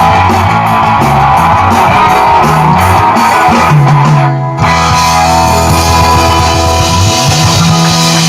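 Live rock band playing an instrumental passage on electric guitars and bass, with a brief stop about four and a half seconds in before the band comes back in.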